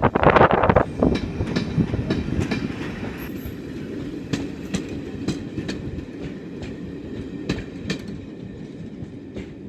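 Passenger coaches of a steam-hauled train rolling past close by, their wheels clicking rhythmically over rail joints above a steady rumble. Loudest as a coach rushes by about a second in, then slowly fading as the train draws away.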